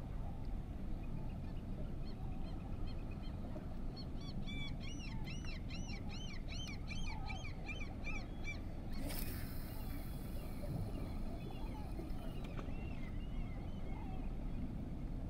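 A bird calling in a quick run of shrill, repeated notes over a steady low rumble, then a few fainter calls. A broad hiss comes in for about three seconds after the calls.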